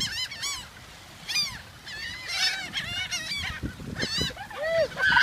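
A flock of seagulls calling: many short, high, overlapping squawks one after another.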